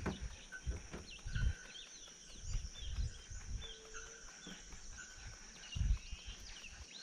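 Wild birds chirping and calling outdoors: many short, quick chirps over a steady high-pitched drone, with scattered low thumps on the microphone.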